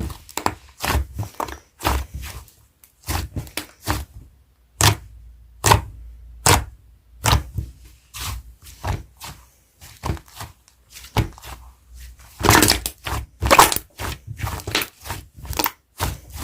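Hard clay-type slime being pressed and squeezed by hand, giving irregular sharp pops and clicks, with a denser run of crackling about twelve seconds in.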